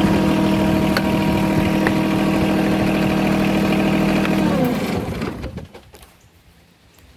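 John Deere 1023E compact tractor's three-cylinder diesel engine running at a steady throttle, then winding down in pitch and stopping a little over halfway through as it is switched off.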